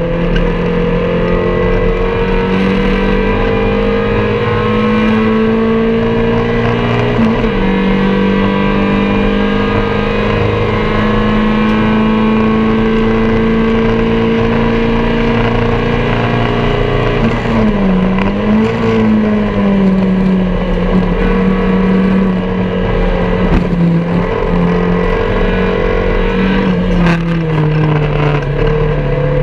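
MG Metro race car's four-cylinder engine running hard at high revs, heard from inside the cabin. The pitch mostly holds steady, dips and climbs again about two-thirds of the way through, and steps down once near the end.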